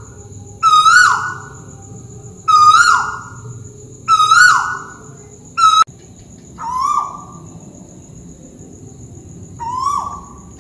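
A tuwu bird calling overhead, repeating a loud, short whistled note that rises slightly and then drops. It gives six notes, spaced one and a half to three seconds apart, and the last two are softer. A steady high insect drone runs underneath.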